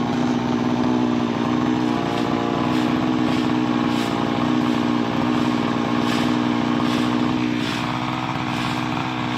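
An engine running steadily at a constant idle, with no change in pitch.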